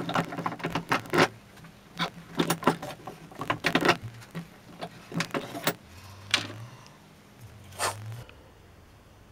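Handling at a workbench: a rapid run of short clicks and knocks as the jig pieces are set down, moved and pressed together, then a few single knocks.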